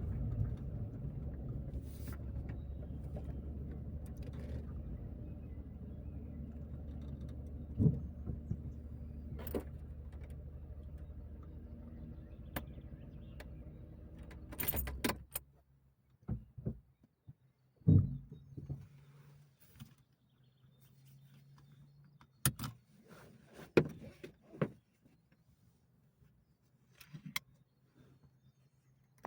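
A car's low running noise growing steadily quieter, then cutting off abruptly about halfway through as the car stops and the engine is switched off. After that, a faint steady hum with a scattering of sharp clicks and knocks.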